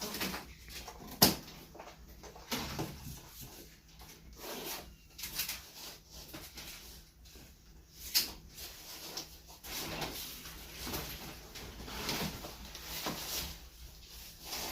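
Knocks, scrapes and rustles from a refrigerator being unpacked, with sharper knocks about a second in and again about eight seconds in.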